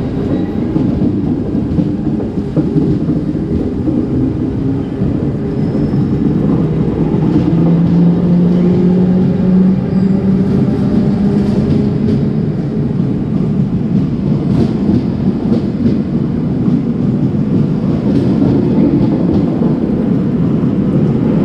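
Passenger train rumbling beside the platform: a low rolling noise with a humming tone that rises slightly about eight seconds in. The sound grows louder over the first several seconds.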